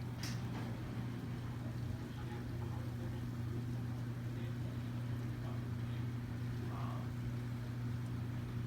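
A steady low hum, unchanging throughout, with a brief faint click about a quarter second in.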